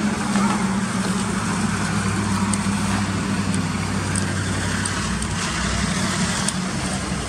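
Steady low engine-like hum over a continuous noisy background, with a few faint high ticks.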